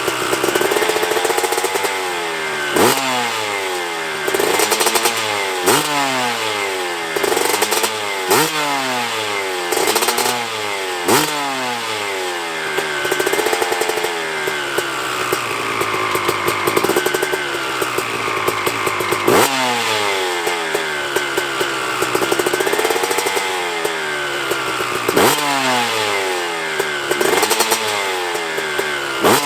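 2000 Honda CR250 single-cylinder two-stroke dirt bike engine warming up after a cold start, blipped repeatedly: each throttle blip sends the revs shooting up, then they fall back toward a rough idle. The blips come every second or two, with a longer steadier spell about midway, and the engine has a raw, rattly two-stroke tone.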